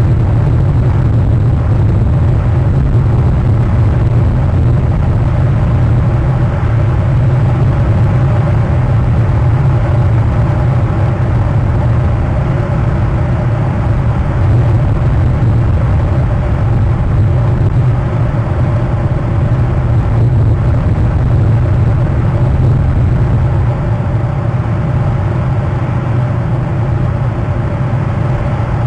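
An engine running steadily with a low, even hum that does not change.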